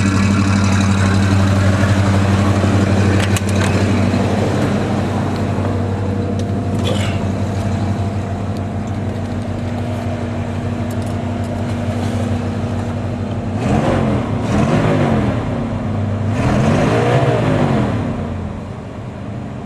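1981 Chevy G30 motorhome's 5.7-litre V8 running at a steady idle after a cold start, heard at the exhaust. Over the last few seconds the pitch rises and falls a few times in short swells.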